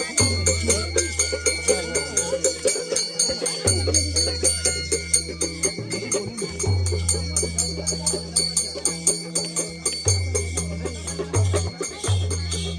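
Traditional Nepali village instrumental music: a fast, steady beat of percussion strikes with jingling, rattling high sounds over long low sustained tones that come and go in stretches.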